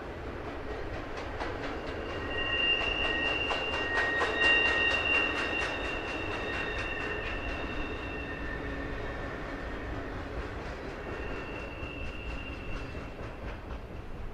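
A train rolling past, its wheels clicking evenly over the rail joints. A high, steady squeal from the wheels on the curving track rises about two seconds in, fades, and briefly returns near the end.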